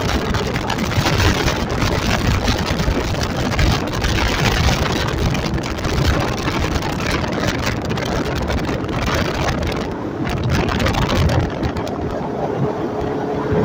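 A motorcycle under way: engine and road noise buried under heavy, gusting wind on the microphone. Near the end the wind eases and a steady hum comes through.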